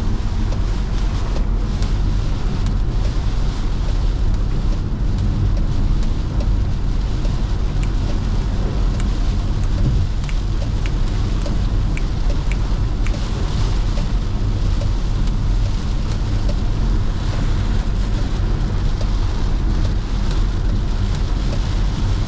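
A car driving on a highway: steady low tyre, engine and wind noise, with a few faint ticks near the middle.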